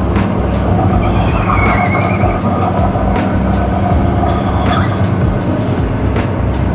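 Tractor-trailer's diesel engine running steadily, heard from inside the cab, with a few light clicks and faint squeaks over the low rumble.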